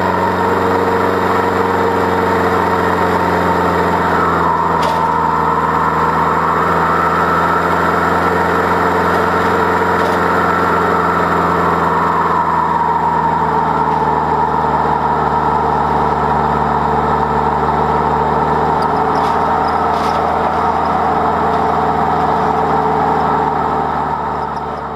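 Land Rover Defender engine with a de-catted exhaust, pulling steadily under load while towing a trailer loaded with three quad bikes up a long climb. The note stays steady and fades out near the end.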